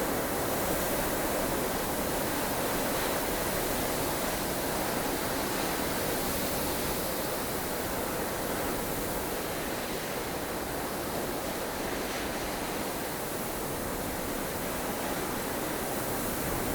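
Blustery snowstorm wind: a steady, dense rush of noise that swells and eases slowly, with no gusts standing out.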